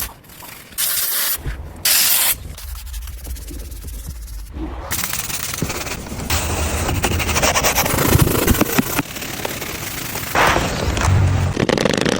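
Pressure washer spraying water onto a car's dirty paintwork: two short blasts, then a steady spray from about five seconds in.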